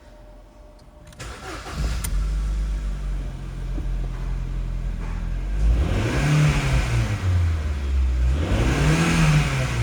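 Ford Fusion's 1.6 petrol four-cylinder (FYJA) engine starting about a second in and settling to a steady idle, then revved up and let fall back twice.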